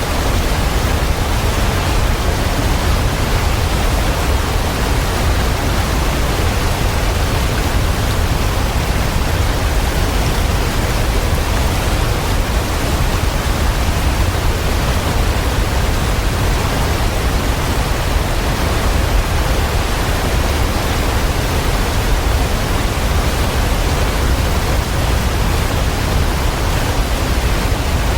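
Waterfall pouring: a steady, unchanging rush of water with a deep low rumble underneath.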